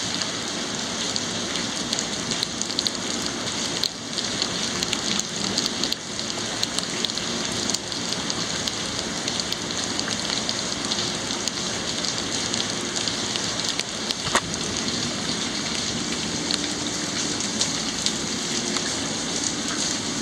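Steady rain falling during a thunderstorm, an even hiss with a few sharp drop ticks.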